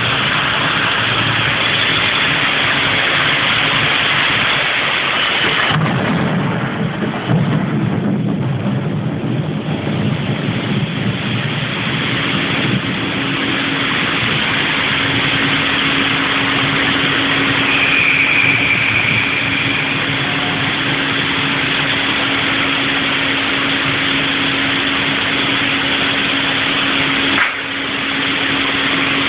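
Heavy rain pouring down in a steady, dense hiss, with a low rumble from about six to ten seconds in.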